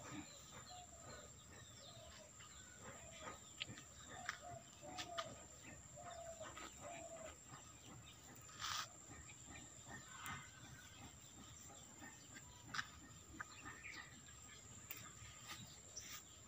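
Faint outdoor ambience with a run of short bird calls, scattered clicks and rustles, and one brief rush of noise just under nine seconds in.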